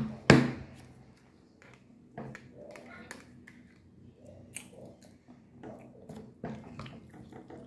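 Close-miked eating sounds: chewing chili cheese fries, with small clicks of a fork against the plate scattered through. A sharp click just after the start is the loudest sound.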